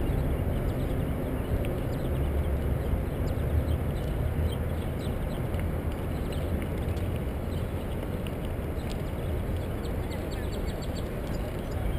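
Wind buffeting the microphone and tyre noise from a moving bicycle, a steady low rush, with faint short high ticks scattered through.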